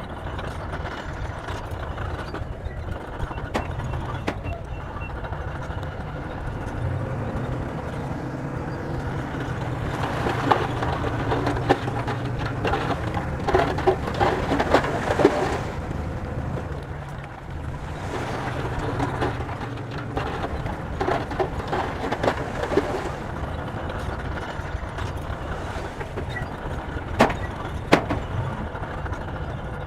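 Bulldozer diesel engine running steadily with a low rumble, with two longer stretches of louder clattering in the middle and two sharp knocks near the end.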